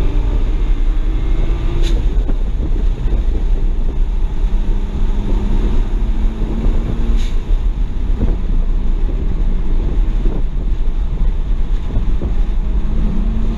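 Inside the cabin of a 2007 BMW 335i at track speed: its twin-turbo N54 inline-six runs under load beneath heavy wind and road rumble. Two brief sharp sounds come about two and seven seconds in, and the engine pitch climbs near the end.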